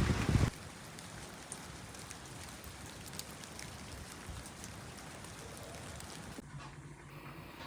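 Light rain falling steadily, with scattered small drips. A much louder rush of noise cuts off abruptly about half a second in, and near the end the rain gives way to a quieter background with a faint low hum.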